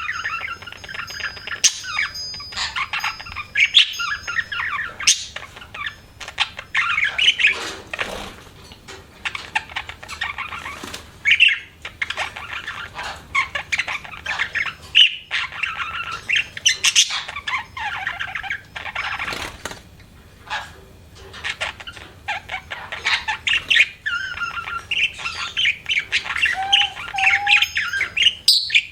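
Budgerigar chattering and warbling, a rapid run of chirps and short squawks with brief pauses.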